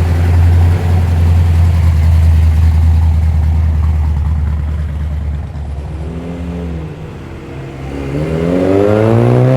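A Pontiac Firebird's engine gives a deep, steady rumble as the car rolls in slowly. Near the end an engine revs up, its pitch rising.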